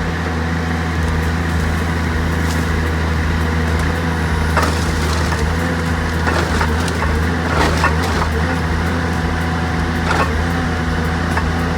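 Timberjack 870B harvester's diesel engine running steadily while wood cracks and splinters sharply several times as its Waratah head grips and works a tree.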